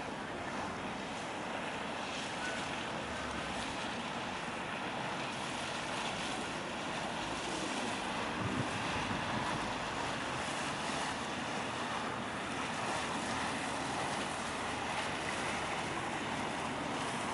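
Steady outdoor water-and-wind noise: river water washing against the quay, with wind buffeting the microphone.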